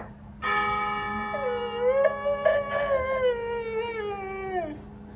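A bell is struck about half a second in and rings with a steady, held tone. From about a second in, a dog howls along with it: one long howl that rises slightly and then slides down in pitch, stopping shortly before the end.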